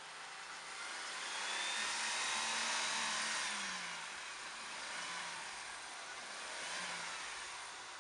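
Off-road vehicle engine running under load as it drives through, rising to its loudest about two to three seconds in, then easing off, with a smaller swell near the end.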